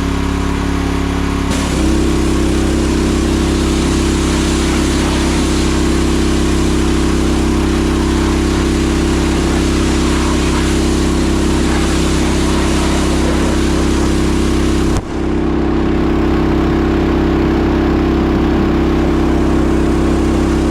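Steam pressure washer running steadily, its engine hum under a constant loud hiss, with a brief dip about fifteen seconds in.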